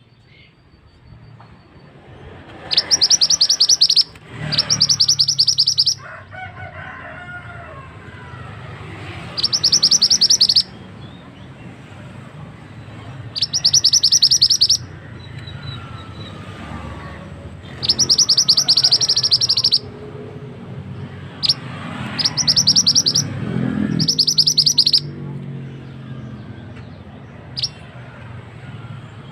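Mantenan (minivet) song: a series of loud bursts of fast, sharp trilled notes, each a second or two long and several seconds apart, with a few short single notes between. Under it runs the steady rush of a flowing stream.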